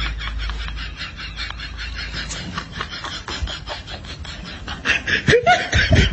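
Kittens suckling: quick, irregular soft smacking clicks, with a brief pitched sound near the end.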